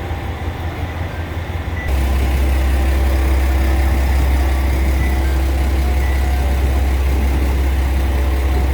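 HOT7000 series diesel railcar's engine running with a steady low drone that steps up louder about two seconds in, then holds.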